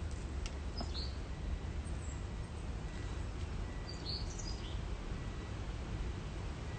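Steady low background rumble with a small bird chirping briefly, about a second in and again about four seconds in.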